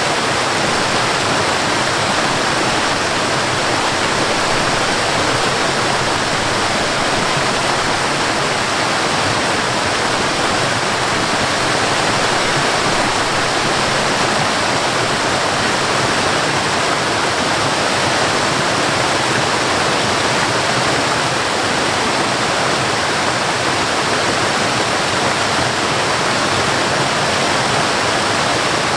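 Waterfall: falling water crashing into a pool in a steady, unbroken rush.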